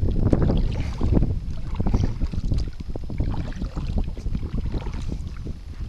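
Wind rumbling on the microphone, with scattered small knocks and clicks over it.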